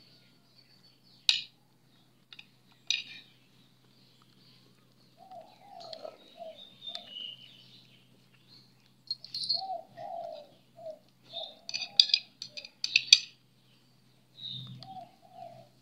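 Birds chirping, with a dove cooing in groups of short repeated notes. A few sharp clicks stand out: two in the first few seconds and a cluster about twelve seconds in.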